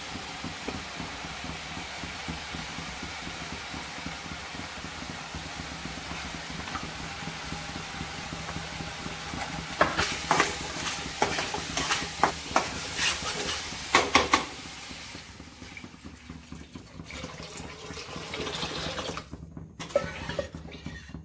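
Tomato masala frying in oil in a kadai, a steady sizzle, the masala cooked until the oil separates. About ten seconds in, a metal spatula clatters and scrapes against the pan for several seconds. Then the sizzle dies down as water goes in, leaving quieter stirring in the thin gravy.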